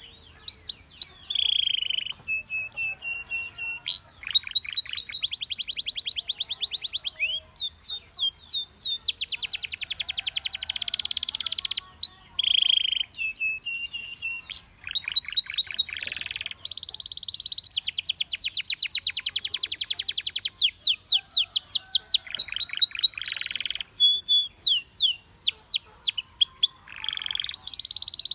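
Canary singing a long run of fast trills and rolls, switching between rapid repeated falling notes and held buzzy phrases.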